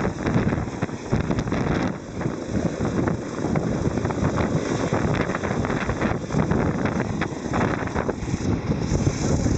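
Eurocopter EC135 helicopter running close by, its rotor and engine noise mixed with heavy wind buffeting on the microphone.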